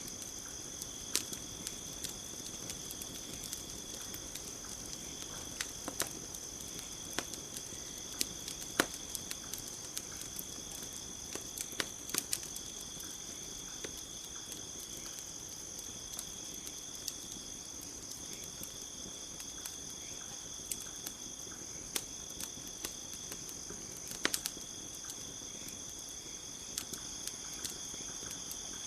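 Campfire crackling: scattered sharp pops and snaps, a few louder ones, over a steady high-pitched chorus of trilling crickets.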